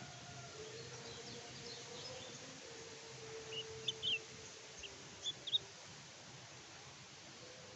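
Kecial kuning songbird giving a quick cluster of short, high chirps about halfway through, over faint steady background hiss and a low drawn-out tone.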